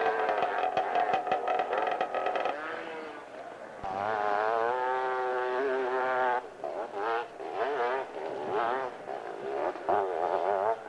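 Dirt bike engine revving hard under load on a steep hillclimb. It holds a steady high note, dips, then rises again with a wavering pitch. Over the last few seconds the throttle comes on and off in short bursts.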